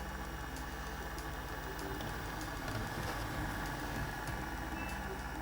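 Two Hornby Class 20 OO gauge model diesel locomotives running together as a DCC consist, a steady mechanical hum with scattered light clicks.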